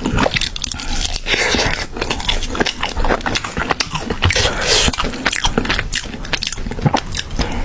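A person eating close to the microphone, biting and chewing crunchy food with many quick, irregular crunches.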